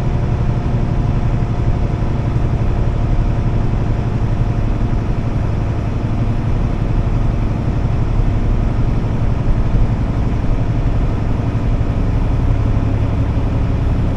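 Truck engine running with road noise: a steady low drone.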